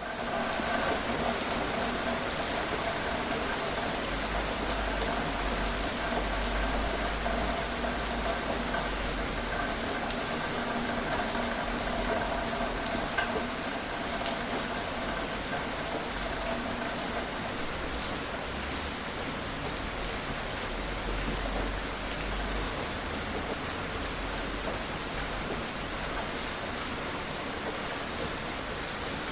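Steady, gentle rain falling, with scattered individual drops ticking through it. It fades in over the first second.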